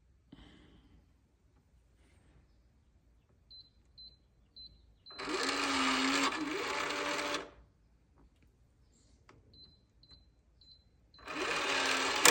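Schlage Connect keypad deadbolt: four short high keypad beeps, then the lock's motor runs for about two seconds with a loud clicking noise as it drives the bolt. The same sequence repeats, the second motor run starting near the end.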